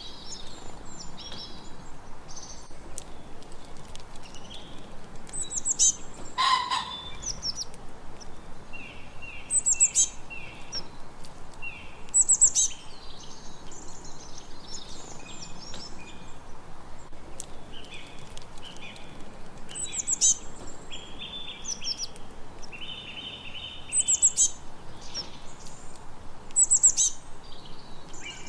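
Several songbirds singing and calling together over a faint steady hiss, with one bright high song phrase that recurs every few seconds.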